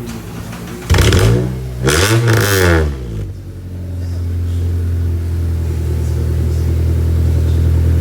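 2005 Honda Accord engine breathing through a freshly fitted custom dual exhaust with a Y-pipe and blast pipes, revved twice, about a second in and again about two seconds in, each rev rising and falling in pitch. It then settles into a steady low idle.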